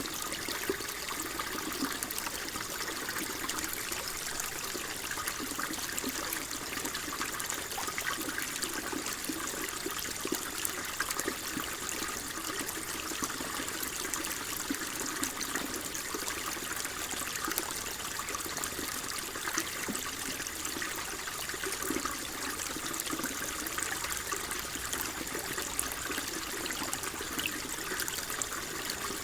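Water flowing and trickling steadily, a small stream or brook with fine splashing.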